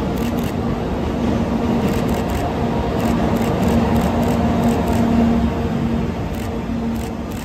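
Electric locomotive hauling a train of 185-series cars passing slowly alongside a platform: a steady rumble of wheels on rails with a steady hum, growing louder as the locomotive draws level about five seconds in, then easing slightly.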